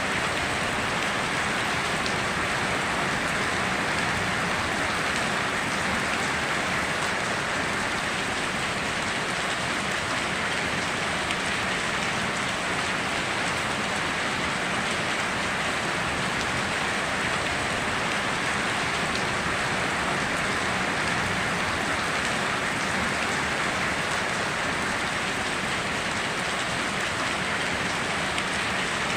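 Steady heavy rain falling and pattering on surfaces, a constant even hiss with no thunder or other events.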